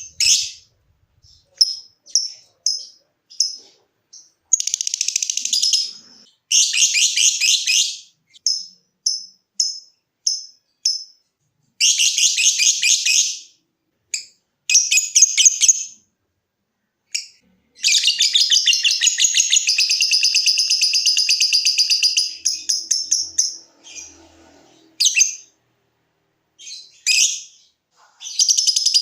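Lovebird calling: series of short, sharp high chirps (the clicking "ngetik") alternating with longer, fast chattering trills ("ngekek"), the longest running about four seconds past the middle.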